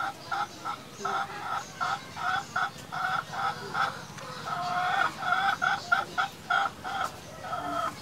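A bird calling in a rapid series of short, repeated clucking notes, about three a second.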